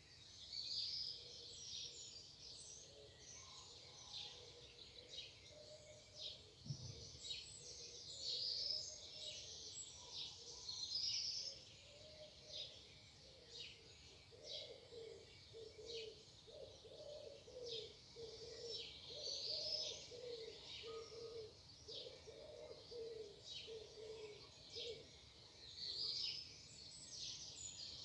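Morning chorus of several songbirds chirping and trilling continuously, with a lower call repeating over and over through the middle. A single soft low thump about 7 seconds in.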